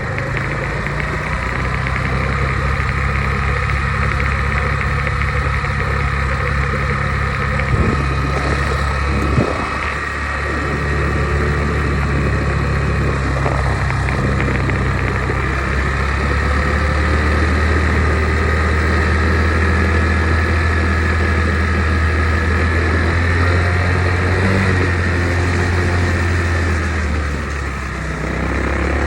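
Dirt bike engine running steadily while being ridden, its note shifting a few times and easing off briefly near the end.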